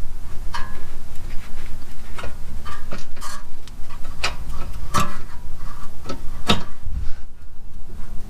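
Irregular metallic clinks and knocks of hand tools and caliper bolts being handled while a rear brake caliper is being refitted, some with a short metallic ring, over a steady low rumble.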